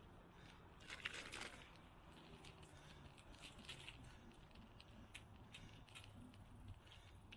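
Near silence with faint scattered clicks and crackles, a denser crackling cluster about a second in.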